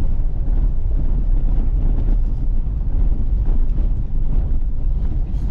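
Steady low rumble of a 2021 Toyota Tacoma driving, road and wind noise buffeting the microphone.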